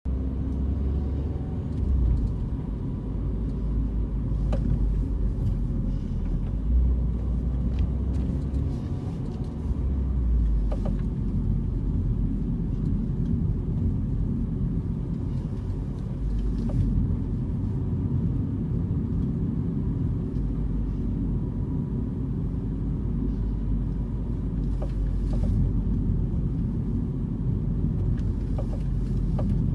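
Renault Clio RS running with a steady low rumble and occasional short, sharp knocks every few seconds. The knocks are the unwanted knocking sound the car has developed.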